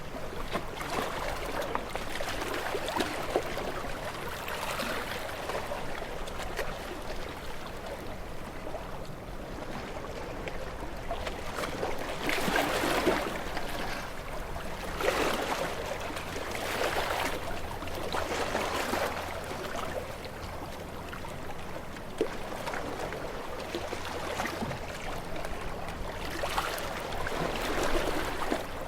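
Sea waves washing and splashing against rocks, a continuous rush of water with repeated louder surges every couple of seconds, the strongest a little before the middle.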